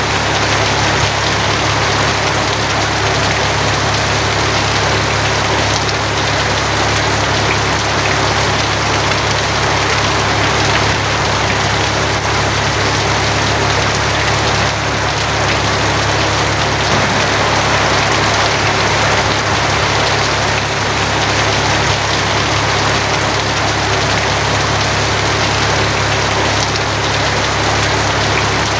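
Steady rain drumming on a tin roof, with a constant low hum underneath.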